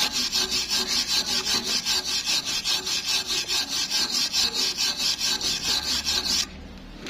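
A hand tool scraping metal in rapid back-and-forth strokes, about five a second. The strokes stop abruptly near the end.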